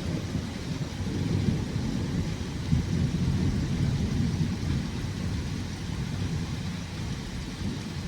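Thunder rumbling low and continuously during a thunderstorm, rising and falling in strength, recorded on an old phone.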